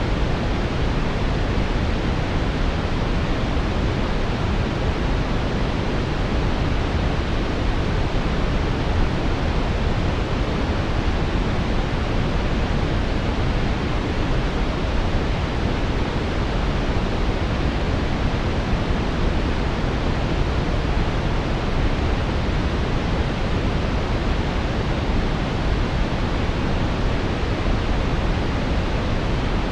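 Steady synthetic brown noise: a deep, even rumbling hiss, strongest in the low end and rolling off in the highs, unchanging throughout.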